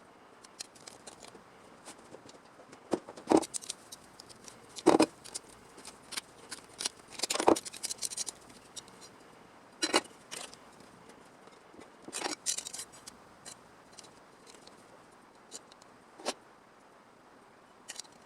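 Hand snips cutting sheet steel for a patch panel: irregular sharp snips and clicks, the loudest clustered in the first two-thirds.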